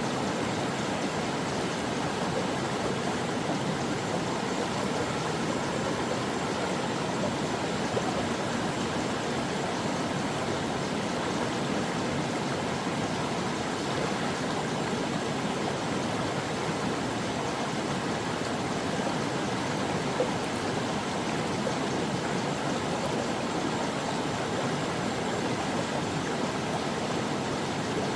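Steady rushing and babbling of a mountain stream's water flowing over rocks.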